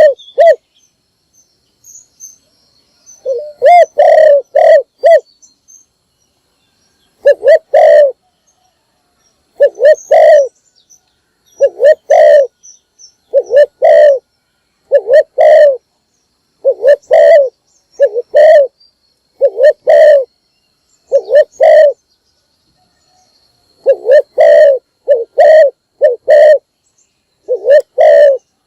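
Spotted dove cooing. It repeats short phrases of two to four low coos roughly every two seconds, with a few brief pauses between phrases.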